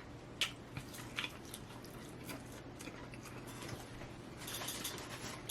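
A person chewing and biting into a fried fish sandwich, with scattered short mouth clicks and soft smacking.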